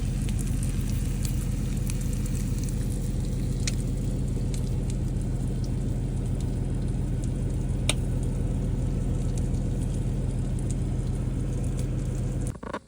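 Steak, onions and eggs frying in a cast iron pan, a steady sizzle with scattered sharp pops over a steady low hum. The sound cuts off suddenly near the end.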